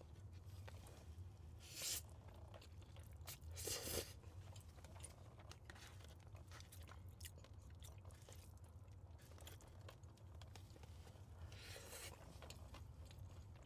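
Faint close-up chewing of palabok noodles, with a few short louder mouth noises about two, four and twelve seconds in, over a steady low hum.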